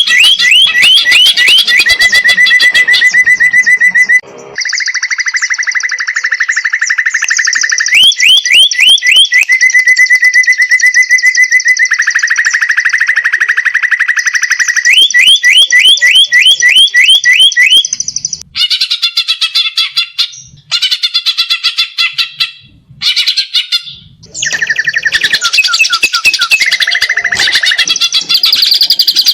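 Cucak ijo (green leafbird) singing loudly in fast, unbroken runs of rapid trilled notes and quick rising sweeps. Past the middle it goes choppier, with short breaks, before running on again.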